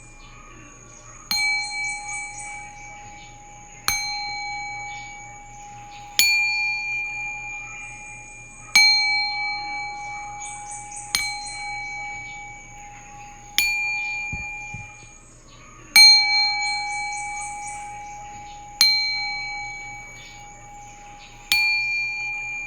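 Singing bowl struck about every two and a half seconds, nine times. Each strike rings out with a clear bell-like tone and fades away before the next, over a faint steady low hum.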